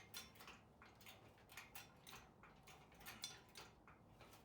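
Faint, irregular metallic clicks and clinks, several a second, as an engine hoist is jacked up to lift the engine.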